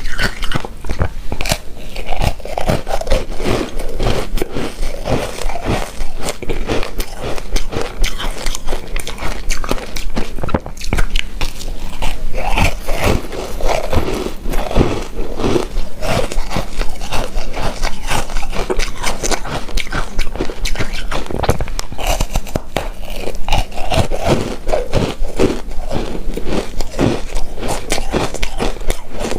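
Close-miked chewing of a soft, chewy coconut rice cake coated in shredded coconut: a steady run of irregular, sticky mouth clicks and wet chewing noises.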